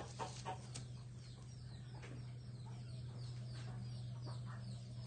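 White Brahma chickens clucking: a few short clucks in the first second, then a run of quick, high, falling peeps. A steady low hum runs underneath.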